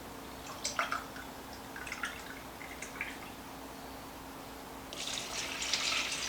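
Chicken broth poured into an emptied soup can: a few faint drips and light knocks, then a longer splashing pour about five seconds in.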